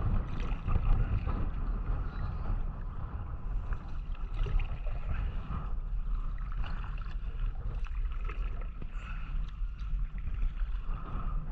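Kayak paddling: water splashing and gurgling around the paddle and hull, with scattered small drips and knocks over a steady low rumble.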